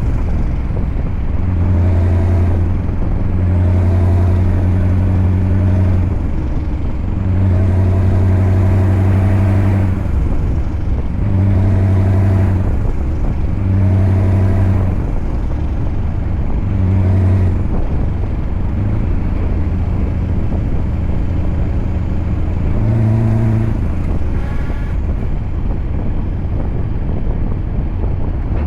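Scania V8 diesel truck engine running, its deep note swelling and easing off again and again as the throttle is worked, then running on more evenly for the last few seconds.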